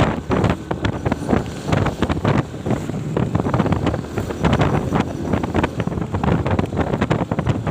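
Heavy wind buffeting on the microphone: a rough, uneven rumble with constant irregular gusts.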